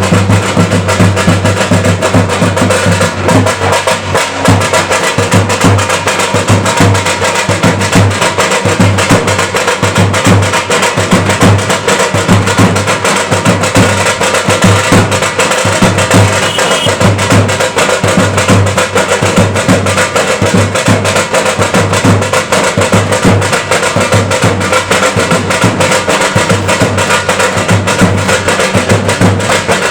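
Loud music carried by fast, unbroken drumming.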